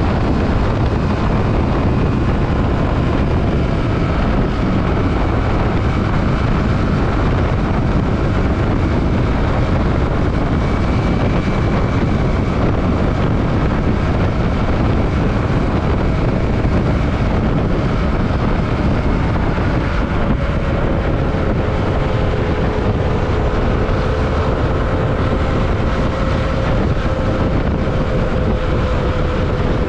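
Yamaha WR155R single-cylinder motorcycle engine running at a steady cruising speed, under a heavy rush of wind over the microphone. The engine note eases slightly in the last third.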